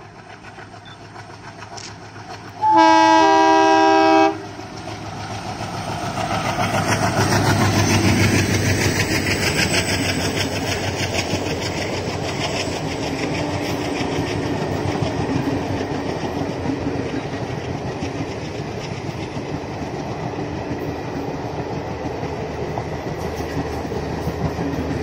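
An Indian Railways WDM3A diesel locomotive sounds its two-tone horn for about a second and a half as it approaches. The engine then passes, loudest about eight seconds in, followed by a steady rumble and clatter of the coaches' wheels on the rails as the train runs by at speed.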